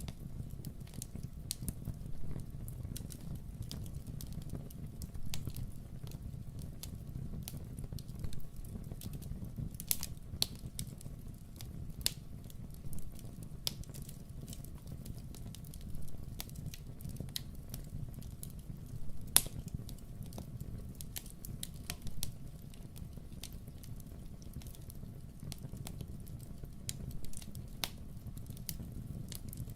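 Wood fire in a fireplace crackling, with irregular sharp pops and snaps over a steady low rumble; one louder pop about two-thirds of the way through.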